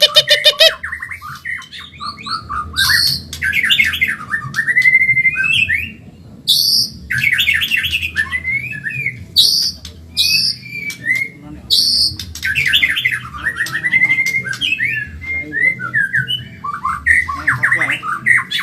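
White-rumped shama (murai batu Medan) singing a fast, varied song: rapid trills, rising and falling whistled glides and harsh buzzy notes, phrase after phrase with only brief gaps.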